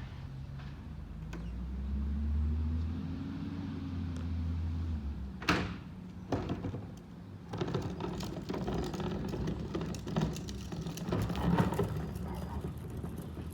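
Garbage truck engine running under load, a tone rising and falling over the first few seconds. A sharp bang comes about five and a half seconds in, then a second smaller knock, followed by sustained rattling and clattering.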